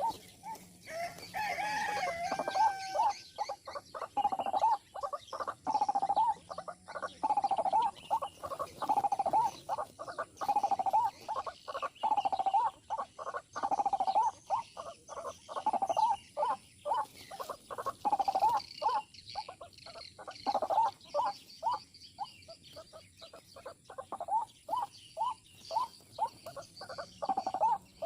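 Watercock (ayam-ayaman) calling: a long series of short, hollow notes repeated steadily, about one to two a second, after a brief sliding call at the start.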